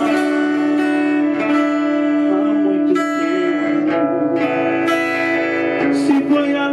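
A live band playing a gospel song, an instrumental stretch with sustained chords and melody between sung lines.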